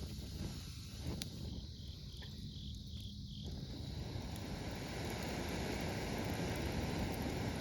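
Campfire burning with a few sharp crackles over a low rumble, while a cricket gives a short run of about six evenly spaced chirps in the first half. From about halfway a broad rushing hiss grows steadily louder.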